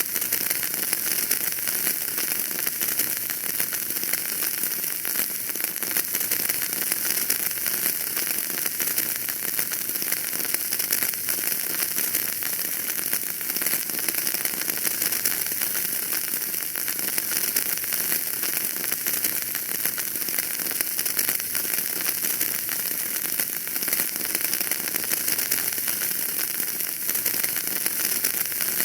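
Wood fire burning in a fireplace, crackling steadily: a dense run of small pops and snaps over a soft hiss.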